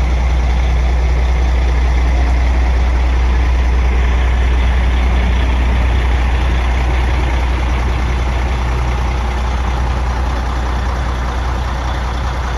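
Sterling truck's diesel engine idling steadily with a deep, even hum.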